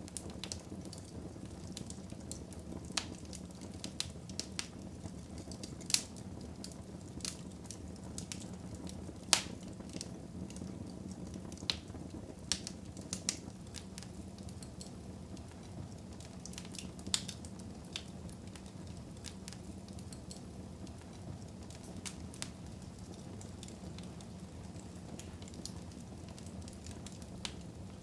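Wood fire burning in a fireplace, crackling with scattered sharp pops over a steady low rumble, the loudest pops about six and nine seconds in.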